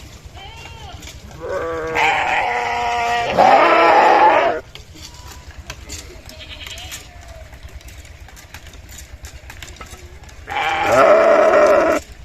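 Sheep bleating: a long wavering bleat of about three seconds starting a second and a half in, then a shorter bleat of about a second and a half near the end.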